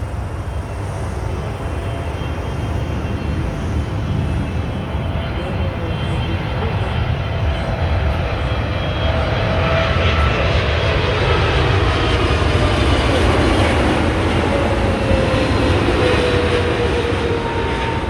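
Boeing 777 jet engines and rushing air heard from inside the passenger cabin during landing: a steady roar that swells through the middle and eases near the end, with faint whining tones falling in pitch.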